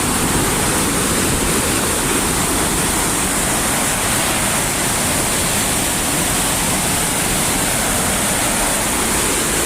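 The Porter Brook in flood, swollen by heavy rain: fast floodwater pouring over a weir makes a steady, unbelievably loud rush of water.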